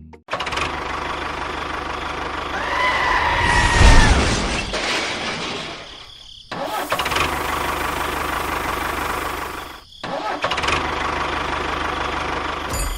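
Small motors of home-built miniature construction machines running, heard in three cut-together stretches. A short whine rises and falls a few seconds in, with a loud low surge around the same time.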